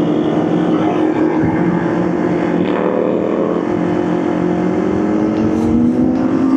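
Motorcycle engine running under way, its pitch holding steady and then rising from about four seconds in as it accelerates.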